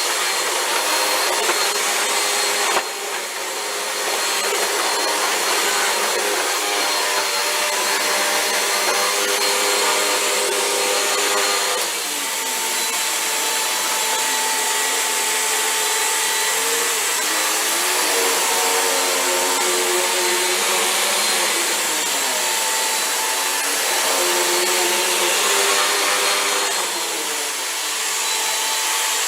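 Vacuum cleaner running continuously as a floor is vacuumed, its motor tone shifting in pitch now and then as the nozzle works the floor. A single knock about three seconds in.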